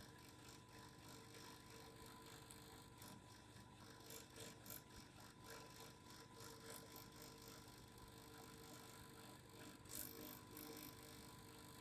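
Faint, steady vibrating hum made of several held tones, with light scattered ticks and rattles over it.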